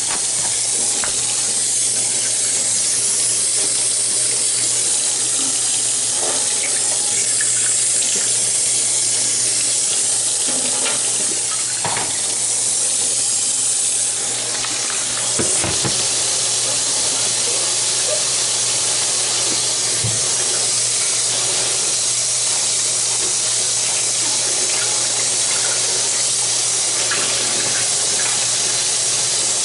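Water running steadily, a continuous rushing splash with a few small knocks.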